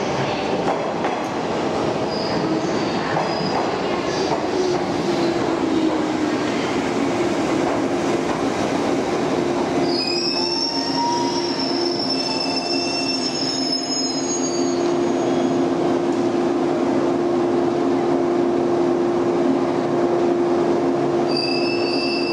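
A 185 series electric multiple unit pulling slowly into the platform and braking to a stop. It gives a continuous rumble and a steady hum, with high-pitched squeals about ten seconds in and again near the end as it brakes.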